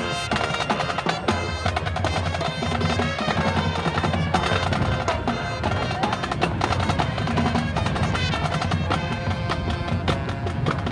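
High school marching band playing, with brass instruments over a steady beat of drums.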